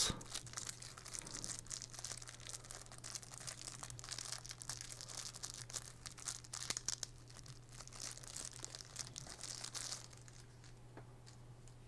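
Plastic packaging crinkling and rustling as a model's display stand is unwrapped from it, with many small crackles, dying down about ten seconds in. A faint steady low hum lies underneath.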